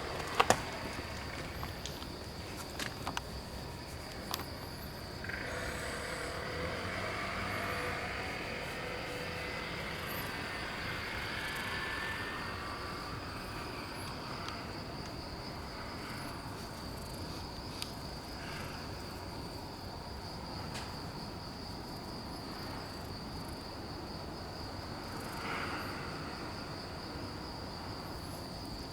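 Insects trilling in the background, one steady high-pitched tone throughout. A few sharp clicks come near the start, and a soft rustling rises and fades in the middle.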